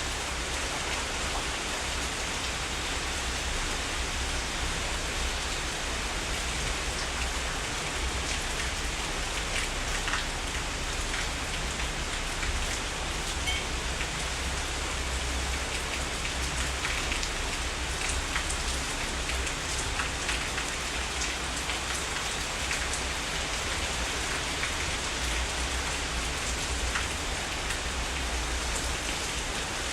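Heavy rain falling steadily, with scattered sharper drop hits and a low rumble underneath.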